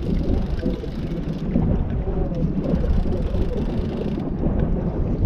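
Steady wind noise buffeting the microphone on an open fishing boat, a dense low rumble with no distinct events.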